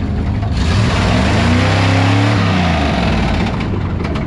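A vehicle engine revving up and dropping back to a lower speed, with a few light clicks near the end.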